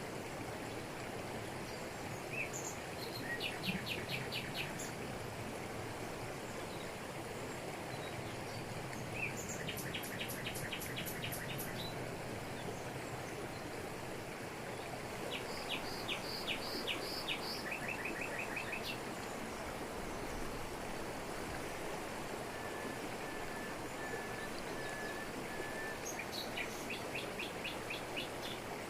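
Waterfall pouring over rocks in a steady, even rush, with forest birds calling over it: several rapid series of high chipping notes, and a run of short, evenly spaced whistles a little over halfway through.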